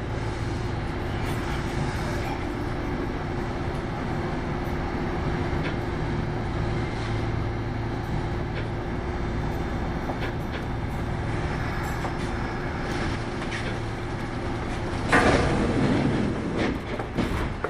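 Kintetsu 8810 series electric train running, heard from inside the car: a steady rumble of wheels on rail with a low steady hum. A louder rush of noise swells briefly near the end.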